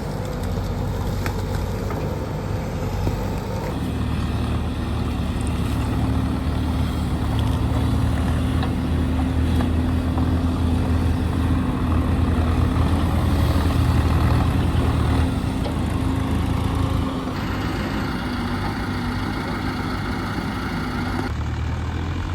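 Diesel tractor engine running steadily under load, getting louder toward the middle and then dropping back, with a few sudden shifts in the sound.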